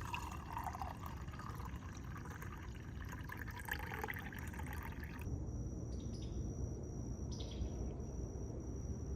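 Quiet woodland ambience: a soft trickle of water with low rumble. About five seconds in, the sound changes abruptly to a steady high insect drone.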